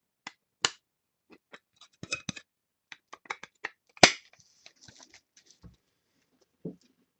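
Trading cards and their packaging being handled: a scatter of sharp clicks, taps and light scrapes, with the loudest snap about four seconds in and a short rustle after it.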